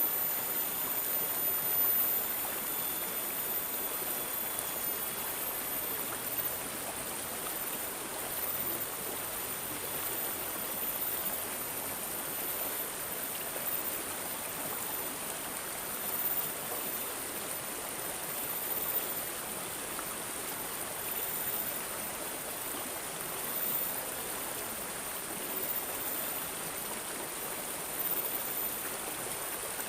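Running water babbling and gurgling steadily, like a small stream, with small swells in loudness.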